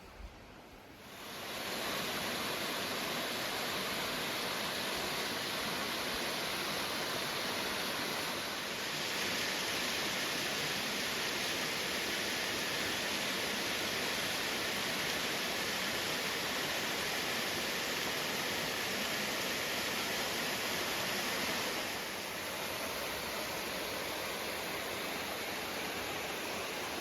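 Rushing water of a creek waterfall: a steady hiss of falling water that comes up about a second in, grows brighter about a third of the way through and drops back a little later on.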